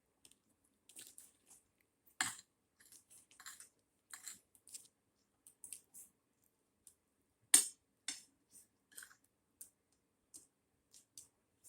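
Eating sounds: a string of small, soft chewing and mouth clicks, with two louder sharp knocks, about two seconds in and at seven and a half seconds.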